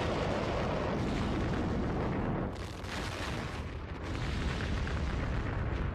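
A series of massive explosions from a fireworks-fuelled chain reaction in a factory's storage area, making a continuous rumbling roar. It eases a little about two and a half seconds in, then swells again about a second later.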